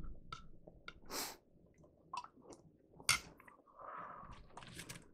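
Close-up chewing and wet mouth sounds of people eating chili, with scattered short clicks and smacks, one sharper click about three seconds in.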